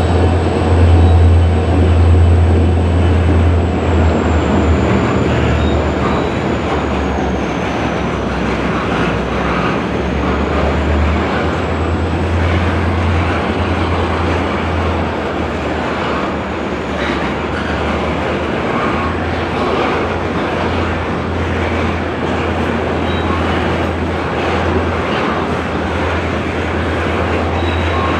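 Long freight train of covered hopper cars rolling past, a steady loud rumble of steel wheels on rail with faint scattered clicks over the rail joints.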